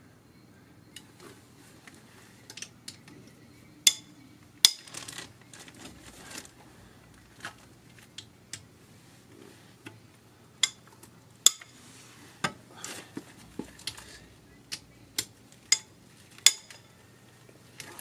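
Irregular sharp metallic clinks and clanks of hand tools, sockets and bolts against engine metal during work on the cylinder head bolts.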